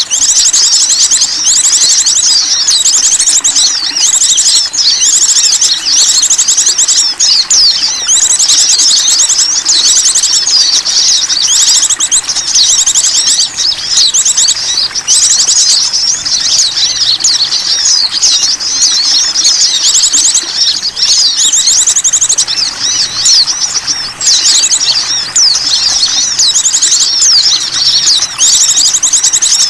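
Bird-lure recording of small birds: dense, high-pitched twittering and chattering with fast repeated trills, many calls overlapping without a break.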